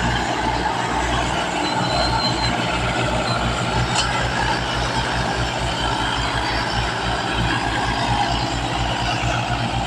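Tractor diesel engine running, with a fast, even low throb that picks up slightly about two seconds in. A single sharp click comes about four seconds in.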